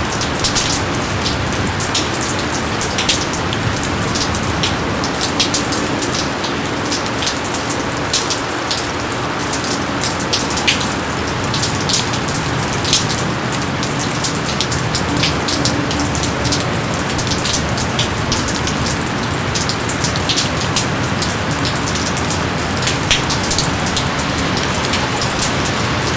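Steady rain falling, a dense even hiss with many sharp, close drop hits ticking irregularly on top.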